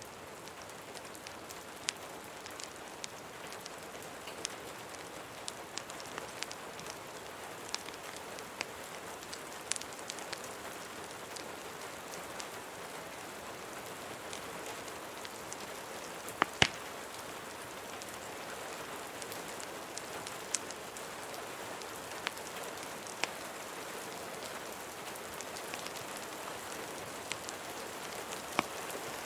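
Steady rain hiss layered with scattered sharp crackles and pops from a wood fire; the loudest is a pair of pops about halfway through.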